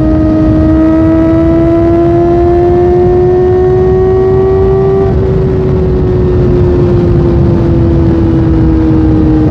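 Kawasaki Ninja ZX-4R's inline-four engine pulling in one gear. Its pitch climbs slowly for about five seconds, then eases off and falls gradually, over a steady low rush.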